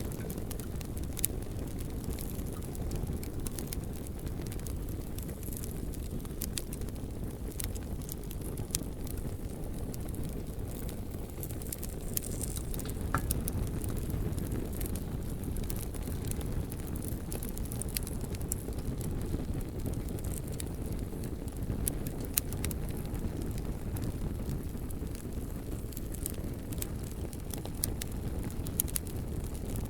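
Beach campfire crackling, with scattered sharp pops and snaps every second or so over a steady low rushing noise.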